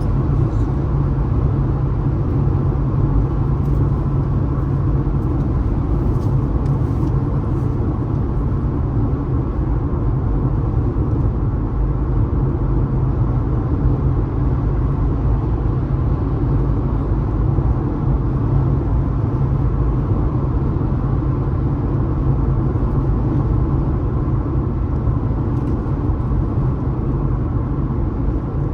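A car driving at a steady speed on a highway: an even, unbroken rumble of road and engine noise.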